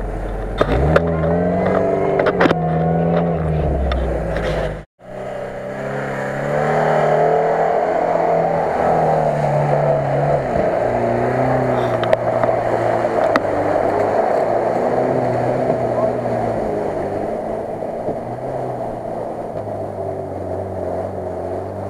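Lada Niva's four-cylinder engine revving hard under load, its pitch rising and falling again and again as it churns through deep mud and water, over a steady rush of noise. The sound drops out for a moment about five seconds in.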